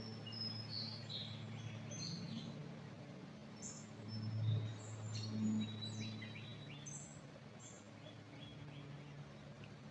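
Songbirds in a pine forest chirping in short, high notes and brief whistles, several overlapping early on and thinning out in the last few seconds. A low, steady rumble runs underneath and swells briefly near the middle.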